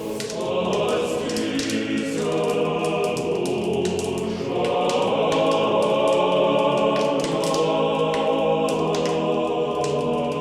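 Closing music: a choir singing slow, sustained chords, swelling a little louder about halfway through.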